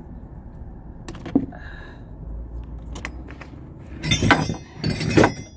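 Insulation tape being pulled off the roll, twice in quick succession about four and five seconds in, after a few small clicks and clinks of handling at the battery terminals.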